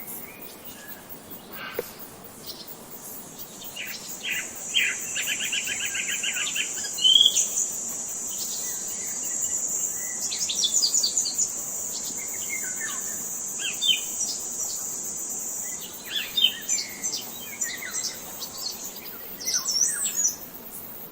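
Several wild birds chirping and singing in varied short calls, with a rapid repeated trill about five seconds in. A steady high-pitched buzz runs underneath from a few seconds in until near the end.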